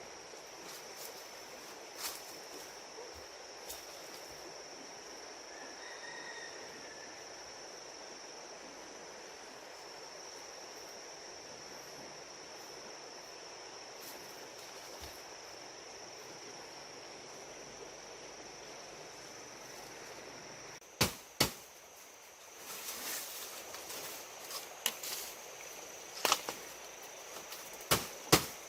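Outdoor ambience with a steady high-pitched insect drone. About two-thirds of the way through come two sharp knocks, then several more knocks and short rustling noises near the end.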